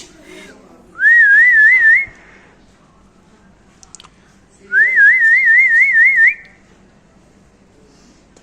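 Two loud warbling whistles, each sliding up and then wavering up and down in pitch about five or six times a second. The first lasts about a second and comes about a second in; the second lasts about a second and a half, near the middle.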